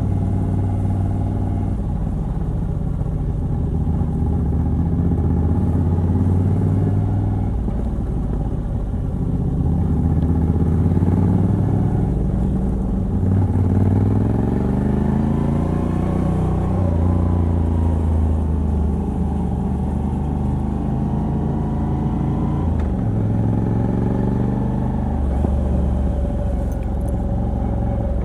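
Moto Guzzi V85TT's air-cooled transverse V-twin, on its stock exhaust with a Mistral decat pipe, running under way. The engine note climbs through the middle, drops back about 17 seconds in, and shifts again a few seconds later as throttle and gears change.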